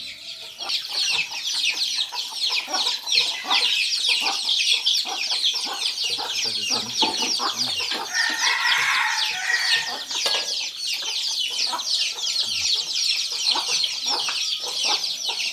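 A flock of chickens calling continuously, a dense stream of many short high-pitched cheeps and clucks, with one louder, fuller call about eight seconds in.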